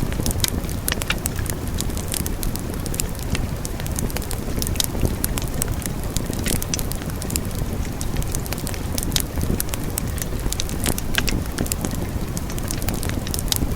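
Wood fire burning in a fireplace: a steady low rumble of flames with frequent sharp crackles scattered irregularly throughout.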